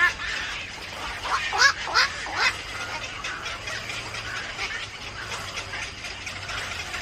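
A bird giving three harsh calls in quick succession about a second and a half in, over a steady background hiss.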